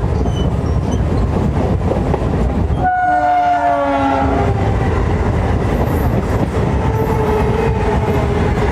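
Electric local train running along the line with a steady rumble of wheels on rail. A train horn sounds about three seconds in for a second and a half, its pitch falling as it fades.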